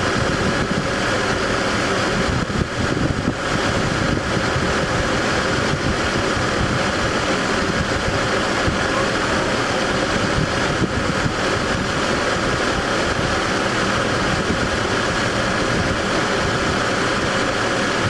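Toyota Land Cruiser engine idling steadily, with the air-conditioning compressor running while the system is recharged with R134a refrigerant.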